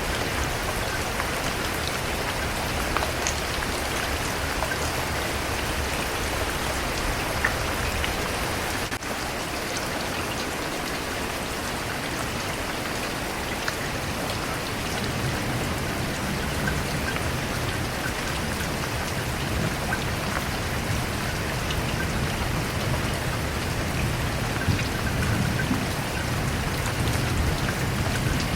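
Steady heavy rain falling, a dense even hiss with scattered crisp drop taps. A low rumble swells under it in the second half.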